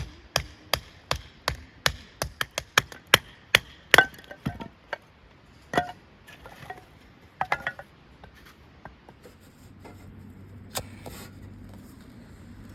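Knife chopping on a wooden cutting board: a steady run of sharp strokes, about three a second, for the first four seconds, then a few scattered knocks. A faint low hum comes in near the end.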